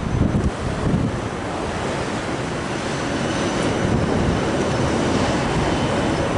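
Strong blizzard wind buffeting the microphone in gusts for the first second or so, then settling into a steady rushing noise.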